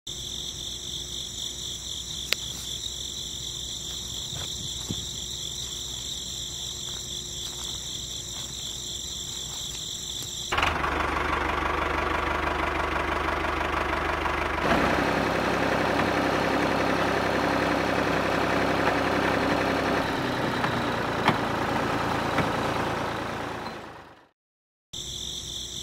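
Small electric motor and gears of a DIY toy tractor running steadily under the load of a trailer of grass, coming in louder about ten seconds in after a steady high-pitched drone, and stopping shortly before the end.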